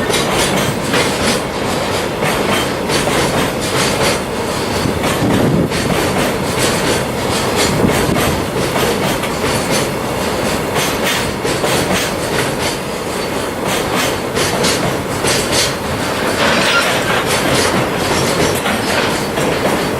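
Container freight train slowly crossing a steel railway bridge, its wagon wheels clacking over the rail joints in a steady run of clicks.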